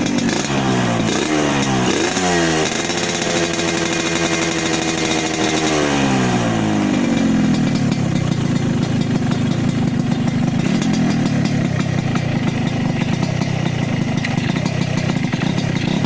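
Motorcycle engine with an aftermarket 'King' exhaust being revved: a few quick blips, then held at high revs for about three seconds, then dropping back to a steady idle for the rest.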